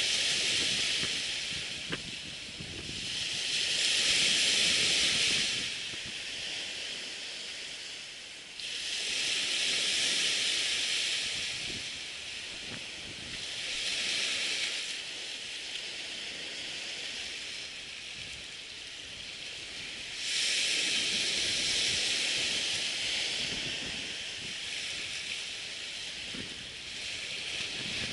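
Surf washing onto the beach: a hissing wash that swells and fades again every four to six seconds as waves come in.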